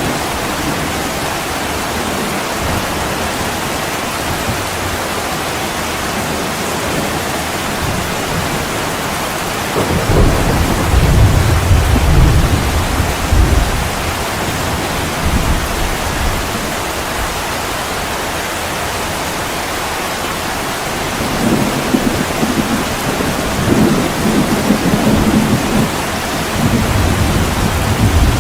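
Heavy rain pouring steadily on a window, with rolling thunder: a low rumble about ten seconds in that lasts a few seconds, and another series of rumbles near the end.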